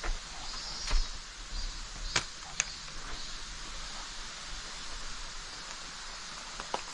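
Footsteps of a hiker walking down a mountain trail: a few sharp steps, near the start, about a second in and around two seconds in, over a steady outdoor hiss.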